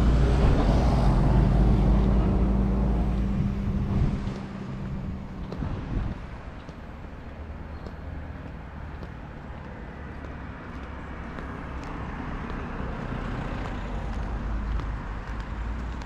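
A motor vehicle's engine passes close by with a low rumble, loudest in the first few seconds and fading away about four seconds in; quieter street traffic follows, rising a little again near the end.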